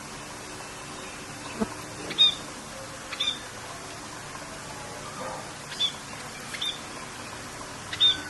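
Songbird giving short, sharp chirps about five times, spaced a second or more apart, over a steady hiss of rain.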